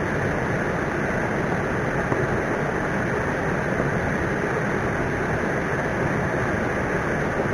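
Steady rushing of a swollen, flooded river.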